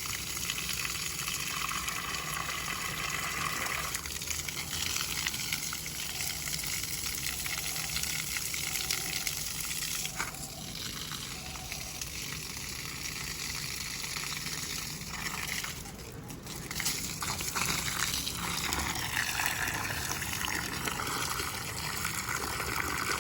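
Water gushing steadily from a garden hose pipe onto plants and soil, briefly softer about two-thirds of the way through.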